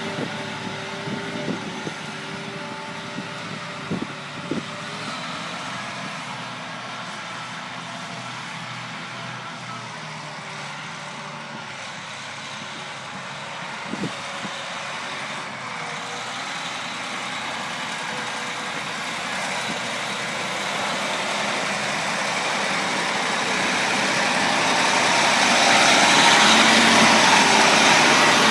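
John Deere 8235R tractor's six-cylinder diesel running after a cold start, with a few sharp knocks in the first half. It grows steadily louder and hissier over the last several seconds.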